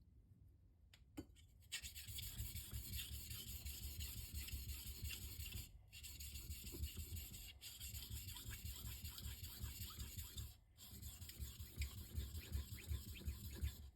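Zwilling knife blade stroked back and forth on a Shapton Rockstar 1000-grit whetstone, a steady rhythmic rasping scrape as the coarse stone grabs metal. It starts about two seconds in and stops briefly twice, about six and ten and a half seconds in.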